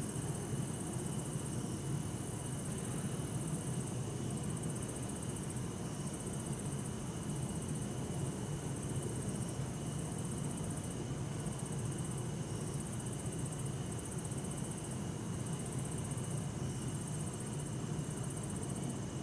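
Bell crickets (suzumushi) and other crickets chirping continuously in repeating high trills, over a steady low hum of distant city traffic.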